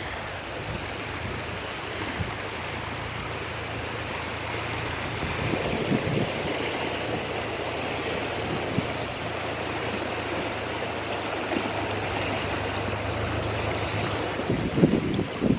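Desert rainstorm: a steady rushing wash of rain and running rainwater, with a faint low hum underneath and a few short low bumps near the end.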